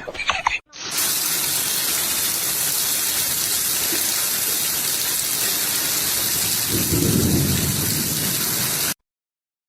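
Steady loud rushing noise, like heavy rain, with a low rumble swelling about seven seconds in; it cuts off abruptly near the end.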